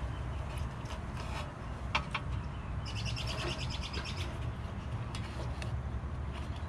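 A bird's quick chirping trill about three seconds in, over a steady low background rumble. Just before it come two light clicks from handling wires and plastic wire nuts.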